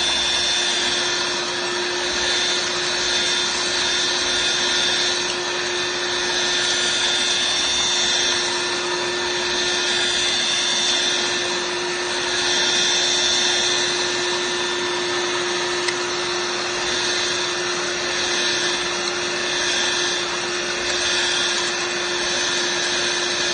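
Dirt Devil Vibe corded stick vacuum running steadily: a constant motor whine over the rush of air, swelling and easing slightly now and then.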